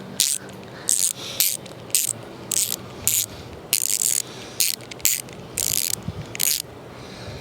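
Hand ratchet wrench clicking in short back-and-forth strokes, about two a second, tightening a bolt; the strokes stop shortly before the end.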